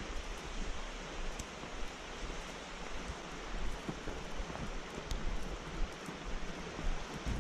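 Steady rushing of a mountain stream: an even hiss of flowing water with no pitch or rhythm.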